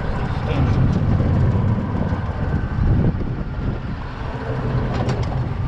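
Vehicle driving along: a steady low engine and road rumble.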